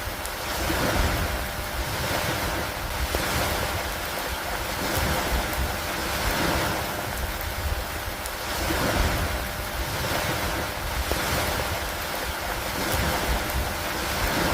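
Steady rain with wind: a continuous hiss that swells and eases every two to three seconds over a low rumble.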